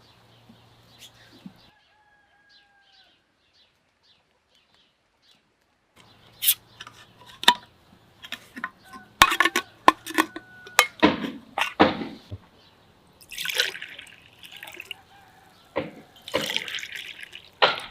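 Food preparation: after a few seconds of near quiet, a string of sharp clinks and knocks of dishware and utensils, with spells of splashing liquid.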